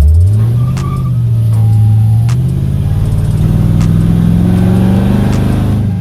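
LS-swapped 1982 El Camino's V8 accelerating: the engine note jumps up at the start, climbs steadily for about five seconds, then falls near the end as it shifts.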